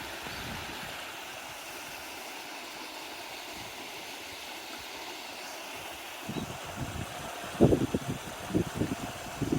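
Steady rushing of a flowing stream, with gusts of wind thumping on the microphone in the last few seconds.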